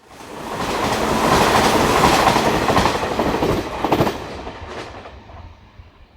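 Electric commuter train running past on the Hanshin Main Line, its wheels clacking over rail joints: loud for about three seconds with a burst of sharp clacks near the end, then fading away.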